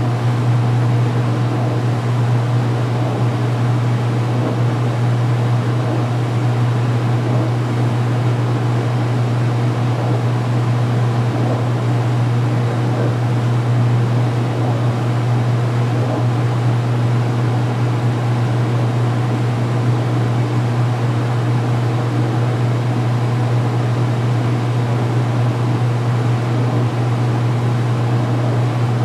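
2016 Speed Queen belt-drive washing machine in its final spin, the motor and basket running at full speed with a loud, steady low hum.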